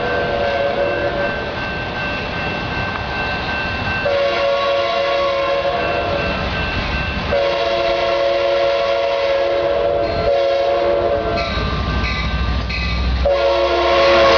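Amtrak F59PHI diesel locomotive's air horn sounding a series of blasts, several long and one short, over the noise of the passing train. A low rumble from the locomotive and wheels grows louder near the end, and the horn's pitch drops slightly as the final blast carries on.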